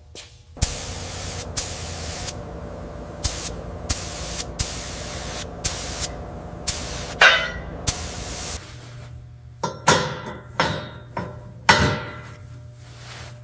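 Workshop noise: a steady hiss with sharp clicks for most of the first eight seconds, then a run of separate metallic knocks and clanks.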